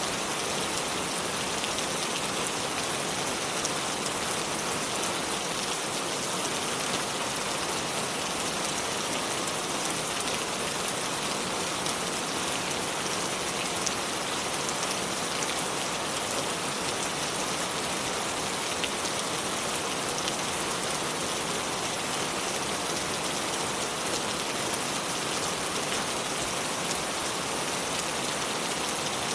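Steady water noise: a dense, even hiss, strongest in the upper range, flecked with faint fine ticks and holding one level throughout.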